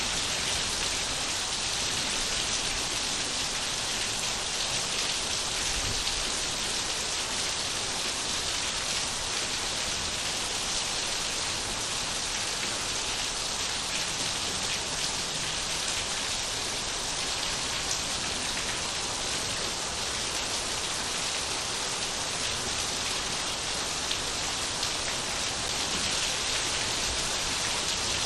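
Steady rain falling, an even hiss with scattered drop ticks on surfaces.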